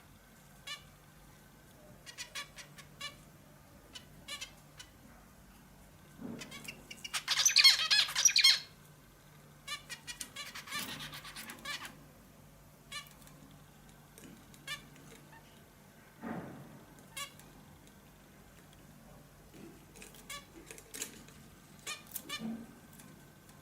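Pet songbird (hint bülbülü) giving short sharp calls every second or two, with two bursts of rapid chattering song about seven and ten seconds in, the first the loudest.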